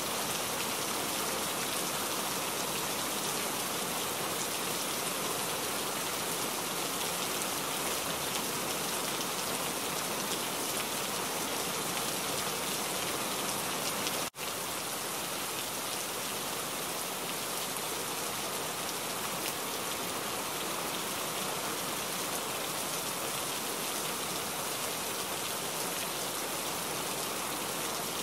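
Rain falling steadily: a dense, even hiss, cut off for a split second about halfway through.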